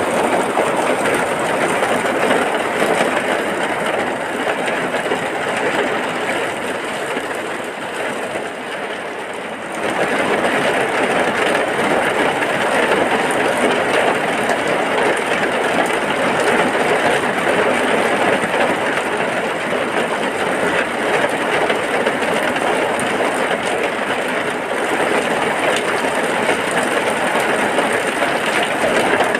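Heavy rain falling in a dense, steady wash of noise. It eases slightly for a few seconds near the one-third mark, then comes back at full strength abruptly.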